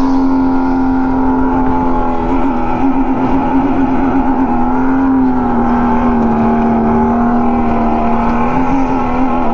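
Go-kart motor running steadily at racing speed, one even pitched tone that dips slightly about five seconds in and then holds.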